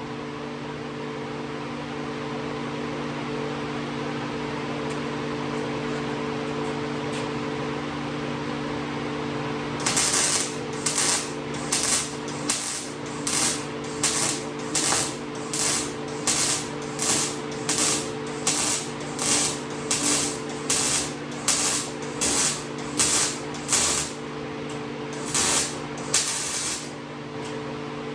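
Millermatic 251 MIG welder laying short stitch welds on thin galvanized 16-gauge tubing: about twenty brief bursts of arc crackle, somewhat more than one a second, starting about ten seconds in and stopping shortly before the end. A steady machine hum runs underneath.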